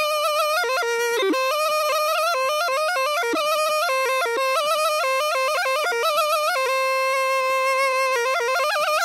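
Zurna playing a fast, ornamented Turkish folk melody in a bright, reedy tone, with quick runs and trills and one longer held note near the end.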